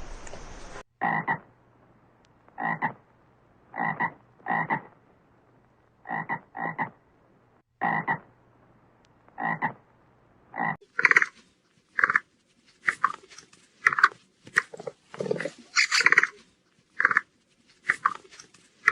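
An animal calling in short, separate calls, roughly one a second. From about eleven seconds in, the calls come faster and higher.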